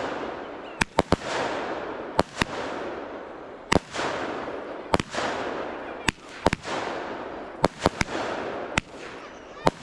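Fireworks going off in quick succession: sharp bangs about once a second, some in close pairs, each followed by a crackling hiss that fades away.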